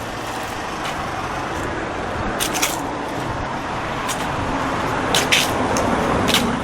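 Street traffic noise that swells as a vehicle passes near the end, with short sharp clicks of footsteps on the pavement.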